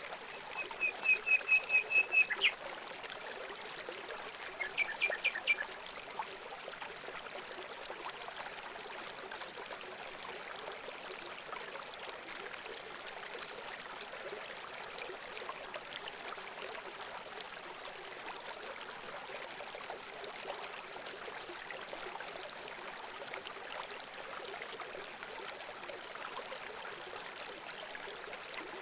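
Running water trickling steadily, with a bird calling near the start: a quick run of about eight sharp repeated notes, then a shorter burst of notes a couple of seconds later.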